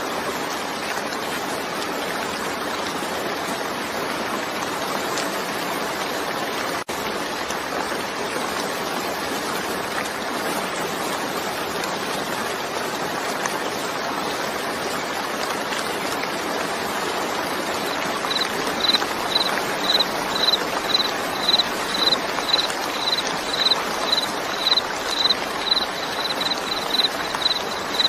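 Steady rain, an even rushing hiss with a split-second dropout about seven seconds in. About two-thirds of the way through, a high chirp starts repeating about twice a second, quickening slightly near the end.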